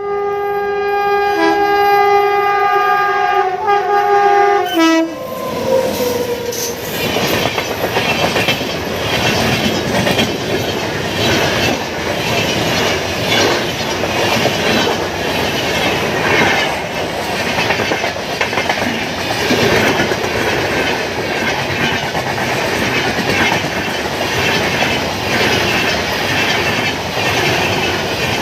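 A locomotive horn sounds one long chord for about five seconds. Then a passenger train passes at speed, its wheels clattering rhythmically over the rail joints for the rest of the time.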